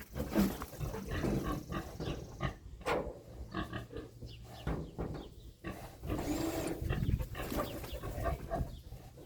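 Pig grunting repeatedly up close, with scattered knocks in between.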